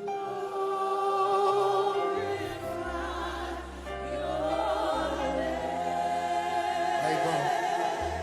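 Live gospel worship music: voices singing long held notes with vibrato over sustained keyboard chords and a deep bass that moves to a new note every couple of seconds.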